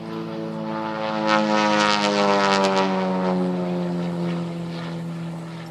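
Pitts Special aerobatic biplane flying low overhead, its piston engine and propeller loudest about one and a half to three seconds in. The engine note then falls steadily in pitch as the plane flies away.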